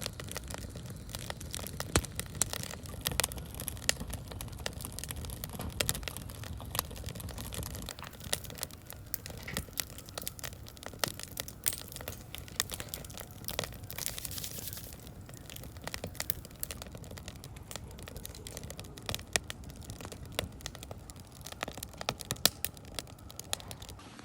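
Firewood burning in a fire pit, crackling and popping at irregular intervals over a low, steady rumble of flames.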